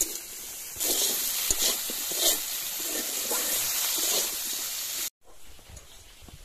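Chopped okra sizzling as it fries in a steel wok, stirred with a metal spatula that scrapes the pan a few times. The sizzle cuts off suddenly about five seconds in, leaving a much quieter background.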